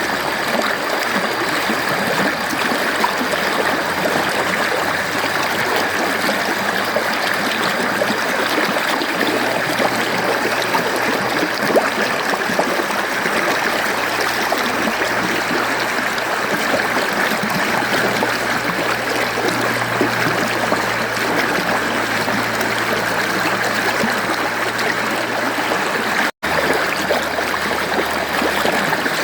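Mountain stream flowing steadily over rocks, a continuous rush of water with a trickling babble. About 26 seconds in, the sound cuts out to silence for a split second and then returns.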